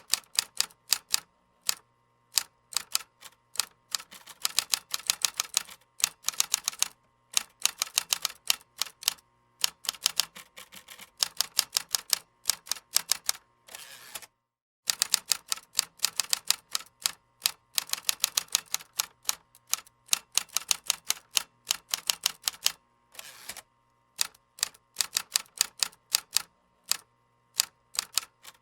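Fast typing on a keyboard: quick runs of crisp key clicks broken by short pauses. About halfway through, the sound cuts out completely for half a second.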